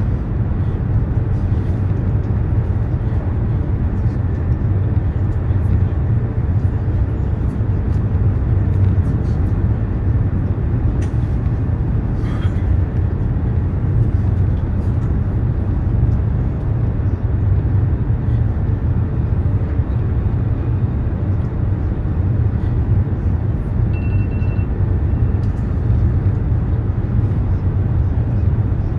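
Steady low rumble of a high-speed train running at speed, heard from inside the passenger cabin.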